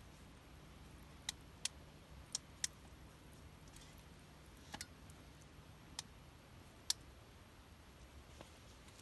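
Wood fire crackling: about eight sharp, separate pops at uneven intervals over a faint steady background.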